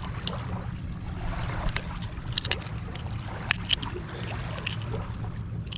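Oyster knife clicking and scraping against an oyster shell as it is pried open at the hinge, a scatter of sharp irregular clicks over a steady low wind rumble.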